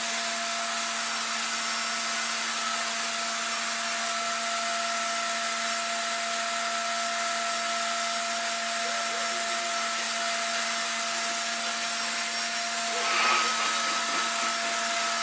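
RevAir reverse-air hair dryer running steadily, its motor drawing air and hair through the wand with an even hiss and a steady hum. The sound swells slightly about 13 seconds in.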